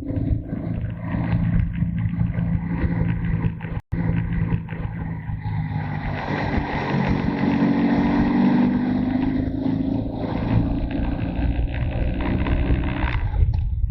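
Motorcycle engine running while riding, with wind rush over it; the engine note shifts in pitch as the throttle changes. The sound cuts out completely for an instant about four seconds in.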